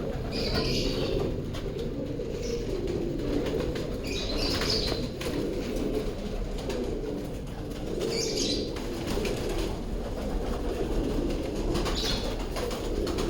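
Pigeons flapping their wings and cooing, with short rustling flurries about four seconds apart.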